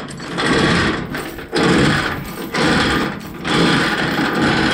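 Steel tie-down chain rattling and clattering as it is hauled through by hand in about four pulls, roughly one a second.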